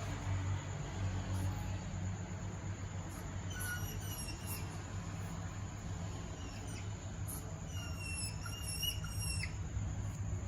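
Mating pygmy hedgehogs making a string of short, high-pitched whistling chirps, starting a few seconds in, over a steady low hum.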